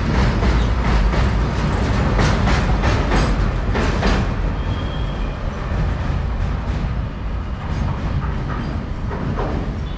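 The last covered wagons and brake van of a goods train rolling past, with the wheels clacking over rail joints above a heavy low rumble. The clacking thins out after about four seconds as the train moves away, and the rumble slowly fades.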